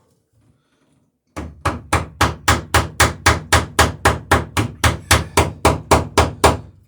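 A hammer peening rivets over on a dory's sheer strake, about four quick, even blows a second. The blows start about a second and a half in and stop just before the end.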